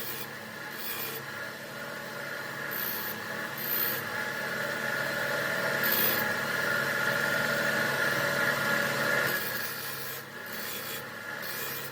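Motor-driven abrasive wheel grinding rust off a steel pipe wrench: a steady motor hum under a scraping rasp that swells louder from about four seconds in and eases after about nine.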